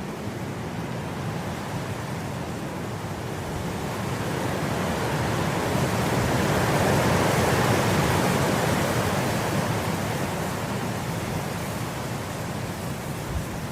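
Wind blowing through grass: a steady rushing that swells into one long gust about halfway through, then eases back down.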